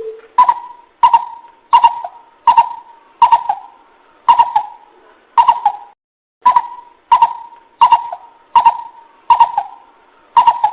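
Coucal calling a fast series of deep, hollow hooting notes, about one every 0.7 s with a short break midway. This is the call used to lure other coucals closer.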